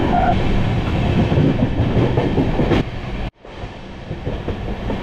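Deccan Queen passenger train running, heard from on board: a steady rumble and rattle of the moving coach. A little over three seconds in the sound cuts out for a moment and comes back quieter.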